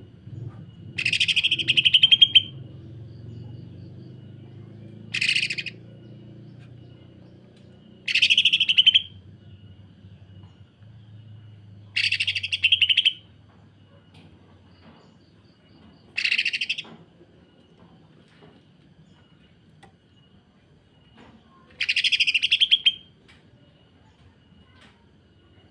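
Green leafbird (cucak ijo) giving six bursts of harsh, rapid chattering song, the tight 'sewing machine' kasaran, each about a second long and a few seconds apart.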